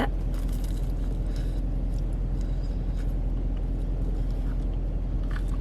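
Steady low rumble of a car cabin with the engine running.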